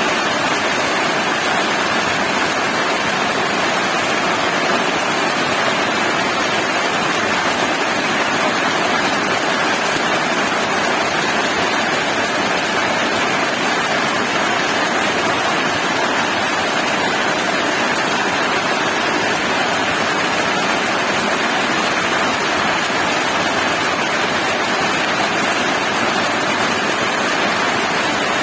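Heavy rain pouring down, a steady, unbroken roar of falling water.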